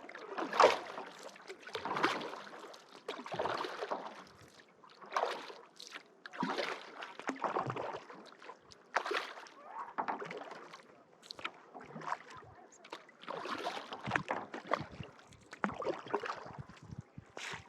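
Kayak paddle strokes: the blades dip and pull through lake water in a steady rhythm, about one stroke every second and a half, each with a splash and drip.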